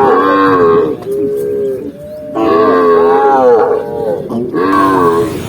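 Cattle mooing: four long calls, one after another, each rising and then falling in pitch.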